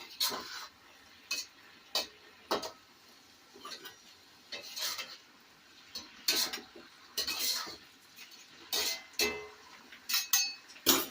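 A metal utensil knocking and scraping against a cooking pan while stir-frying, in irregular strokes about once or twice a second, a few leaving a short metallic ring.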